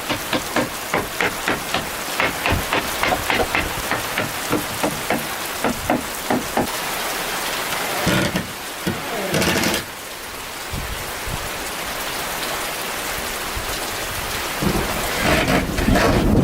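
Steady rain hissing, with quick sharp knocks about three a second through the first half. A louder stretch comes around eight seconds in, and the rain grows heavier near the end.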